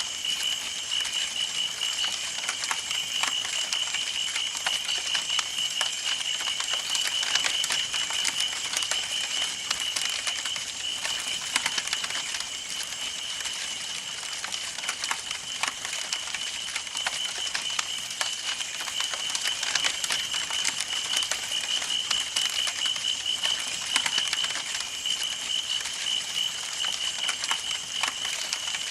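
Campfire burning with dense, irregular crackling and popping of the burning wood over a soft hiss. A steady high-pitched pulsing tone runs under it.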